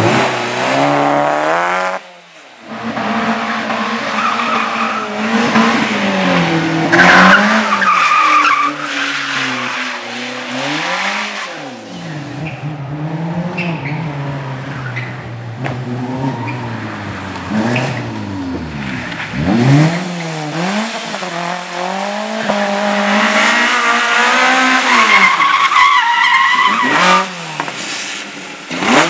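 Competition slalom cars driven hard through the course: engines revving up and dropping back again and again with throttle lifts and gear changes, with tyres squealing in the turns.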